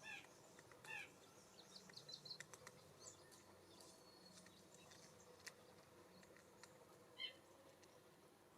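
Faint wild bird calls: three short calls, one at the start, one about a second in and one near the end. Between them comes a scatter of light ticks and small high chirps.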